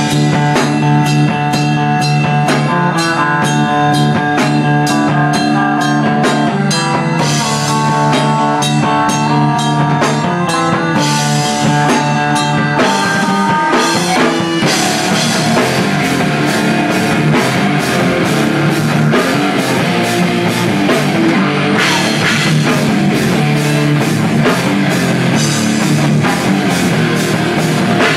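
Live rock band playing: guitars over a drum kit beat, the drumming getting denser about halfway through.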